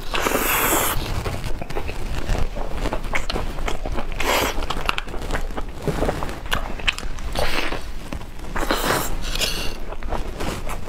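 Close-up crunching and chewing of crispy fried food, with several loud crunchy bites: one right at the start, then about four, seven and nine seconds in, and steady chewing between them.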